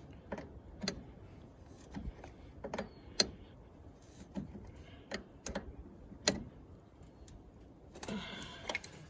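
Irregular sharp metal clicks and clinks, about ten of them, as a wrench works the battery terminal hardware on an International Harvester 574 tractor. There is a brief rustle near the end.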